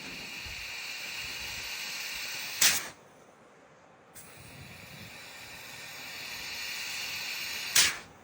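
Nitrogen hissing through an evaporator coil during a flush, blowing out refrigerant oil trapped by a restriction. The steady hiss ends in a short loud blast, stops for about a second, then starts again and ends in another loud blast near the end.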